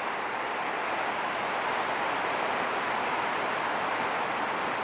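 Steady roar of surf washing onto a rocky shore below, an even rushing wash without distinct breaks.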